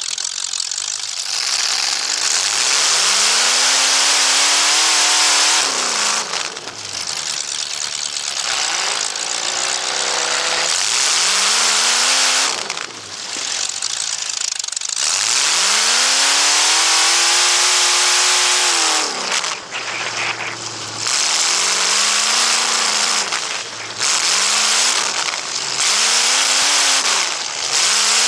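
Race car engine accelerating and backing off about ten times, its pitch climbing and falling with each run, the longest lasting about four seconds, over a loud rough hiss of exhaust and track noise.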